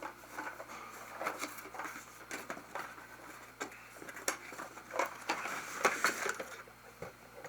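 Handling of a toy truck's cardboard box: scattered light taps, scrapes and rustles as it is turned and opened.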